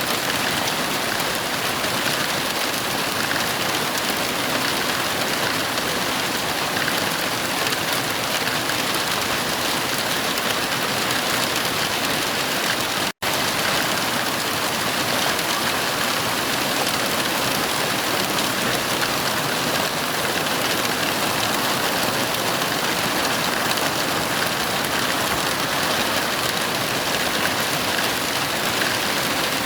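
Heavy rain falling in a steady, even hiss. It cuts out for an instant about 13 seconds in.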